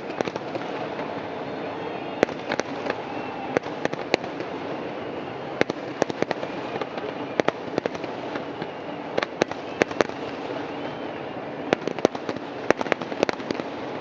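Fireworks exploding: a steady rumble of distant bursts with many sharp, separate bangs at irregular intervals, often several in quick succession.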